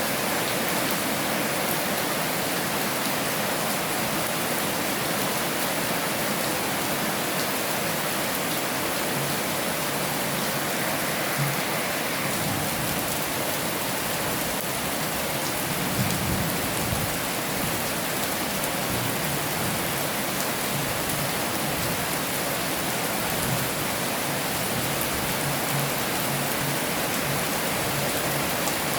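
Heavy rain falling in a steady, dense hiss, with a few brief low thuds mixed in, the clearest about halfway through.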